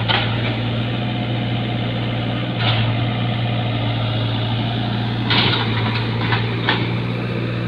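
Hyundai backhoe's diesel engine running steadily at a low, even hum, with a few short rushes of noise over it.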